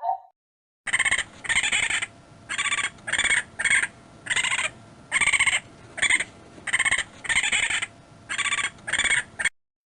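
A farm animal calling over and over: about a dozen short, nasal, pitched calls in quick succession, then an abrupt stop shortly before the end.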